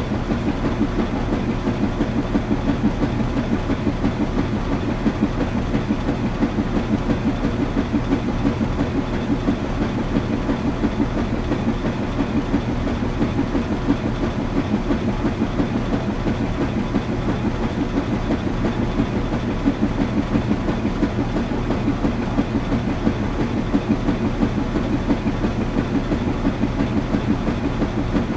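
Washing machine running: a steady low rumble with a fast, even pulse from the turning drum and a constant motor hum.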